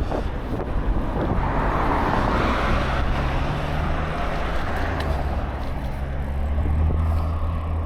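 Road traffic heard from a bicycle on the road: a motor vehicle goes by with a swell of tyre and road noise, and a steady low engine hum holds through the second half, over wind on the microphone.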